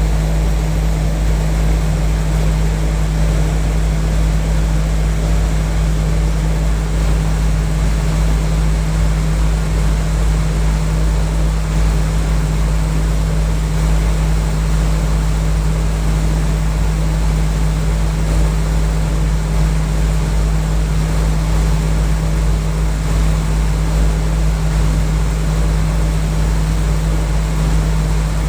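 Package air-conditioning unit running: a loud, steady machine hum with a strong low drone that does not change.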